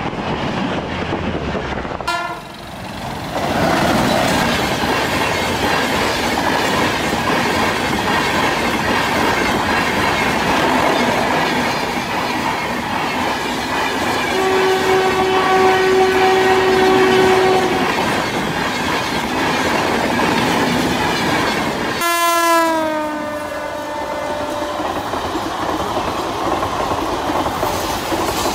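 Indian Railways passenger trains passing at speed, with the steady loud noise of coaches running over the track. About halfway through, a locomotive horn sounds steadily for about three seconds. Near the end, another horn slides down in pitch as the train rushes past.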